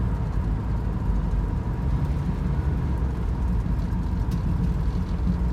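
Dodge Challenger's 225 slant-six engine running steadily as the car drives, a continuous low drone with road noise.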